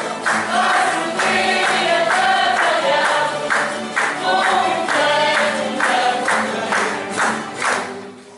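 A group of voices singing together in chorus over instrumental accompaniment, dying away near the end.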